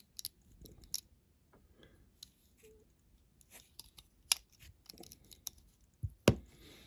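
Small clicks and taps of diecast toy-car parts being handled and fitted as the bumper goes back onto the metal casting, with a louder knock about six seconds in.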